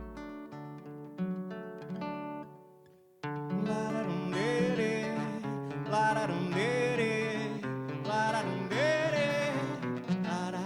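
Instrumental intro of an indie band song: plucked acoustic guitar notes ring out and fade for about three seconds. Then the full band comes in, with a melodic lead line that bends and wavers in pitch.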